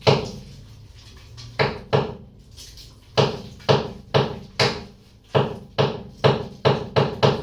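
Repeated sharp knocking, about a dozen taps in uneven groups with a pause after the first, each ringing briefly in the room.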